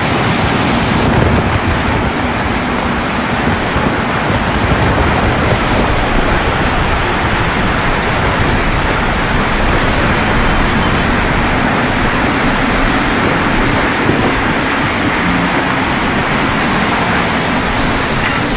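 Heavy rain in a thunderstorm, a steady continuous hiss with a strong low end and no distinct thunderclaps.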